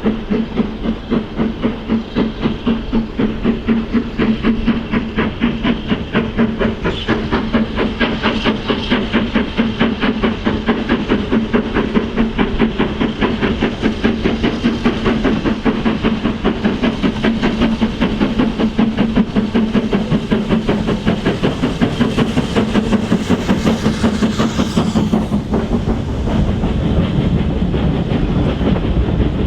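Steam locomotive working past with a steady rhythm of exhaust beats, about three a second. Near the end the beats give way to the steadier rumble of the train rolling by.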